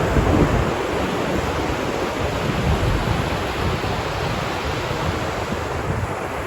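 Ocean surf washing on a beach, a steady rushing wash of waves.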